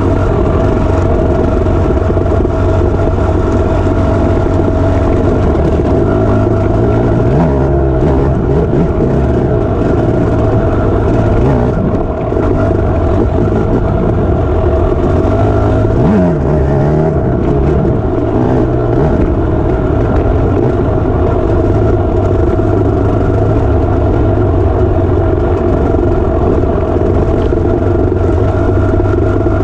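Dirt bike engine running hard under way, with its pitch rising and falling as the throttle is worked, most clearly about 7 seconds in and again around 16 to 19 seconds in.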